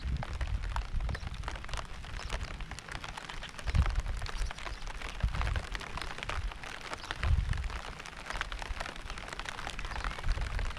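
Steady rain with many separate drops pattering. Low rumbles come and go beneath it, strongest about four and seven seconds in.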